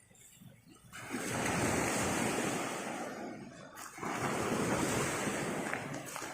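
Sea surf washing onto the beach: two surges of rushing water, one starting about a second in and the next about four seconds in.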